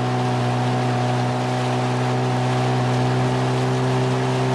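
Motorboat engine running at a steady speed, a constant low hum with a few higher steady tones over an even hiss.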